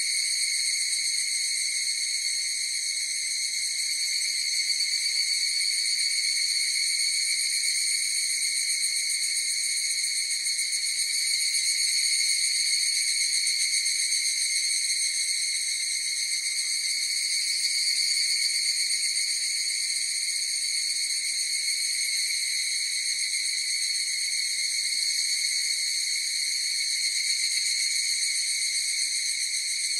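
Chorus of higurashi (evening cicadas) as one steady, unbroken high-pitched drone that neither rises nor falls.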